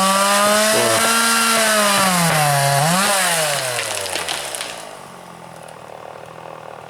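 Two-stroke chainsaw running at high revs, its pitch sagging and recovering as it works. About four seconds in it winds down to a faint idle.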